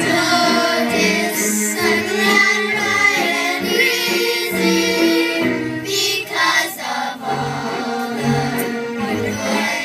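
A choir singing a song to musical accompaniment, with sustained low notes under the voices.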